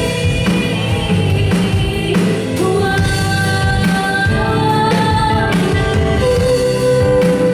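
Live band playing an instrumental break between sung lines: a drum kit keeps the beat under a lead melody of long held notes.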